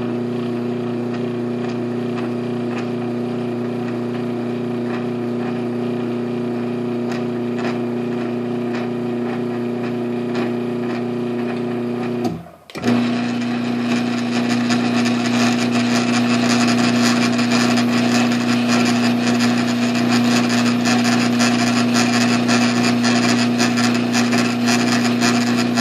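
LiftMaster 1245LM garage door opener motor running with a steady hum for about twelve seconds. It stops for a moment, then starts again and runs a little louder until the end.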